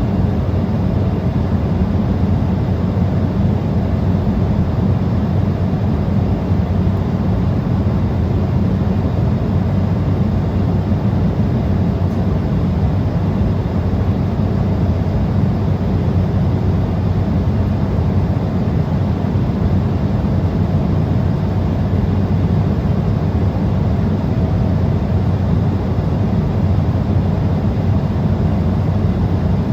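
Steady cabin noise of an Embraer 175 regional jet at cruise: a constant low drone of its twin turbofan engines and the airflow over the fuselage, with a low hum running under it.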